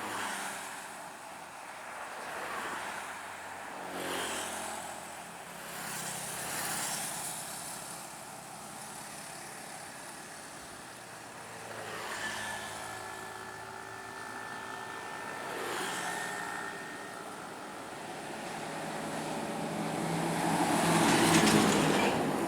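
Scania P420 trucks driving past one after another, each engine rising and falling as it goes by, with the loudest pass near the end.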